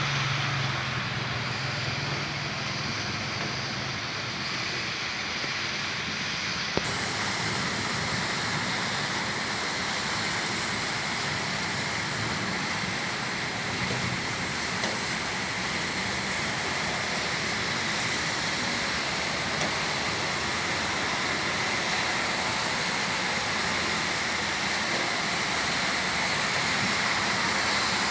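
Steady rain falling, a continuous hiss with no let-up. About 7 seconds in, the hiss suddenly turns brighter and sharper.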